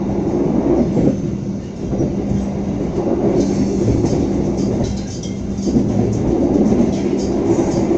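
Sancaka passenger train running at speed, heard from inside a premium economy coach: a steady rolling rumble of wheels on rail with a constant hum. From about three seconds in, quick light clicks and clatter are heard.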